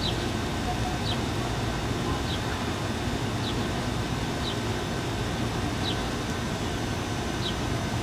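A bird's short, high chirp, falling slightly in pitch, repeated about seven times at roughly one- to one-and-a-half-second intervals over a steady low rumble.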